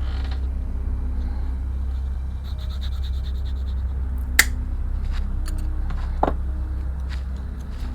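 Light scratching and handling of small wooden model-kit pieces on a workbench, with two sharp clicks about four and a half and six seconds in, over a steady low hum.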